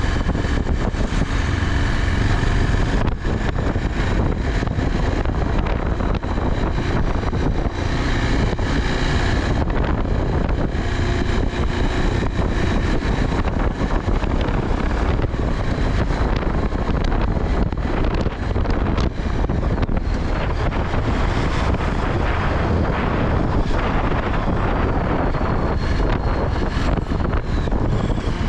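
Steady rush of wind buffeting the microphone on a moving bike, mixed with vehicle and road noise.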